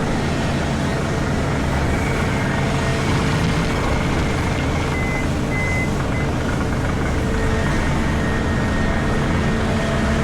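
Steady low drone of a Komatsu PC4000 hydraulic mining excavator heard from inside its cab, the machine running and working without a break.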